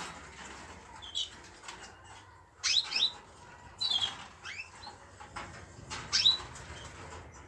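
Small cage birds chirping: short bursts of quick, high sweeping calls, about four or five times, with soft clicks and rustling between.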